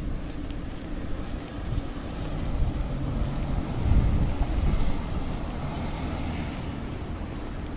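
Road traffic: a motor vehicle's engine rumble swelling as it passes close, loudest about four seconds in, then fading back into the low street hum.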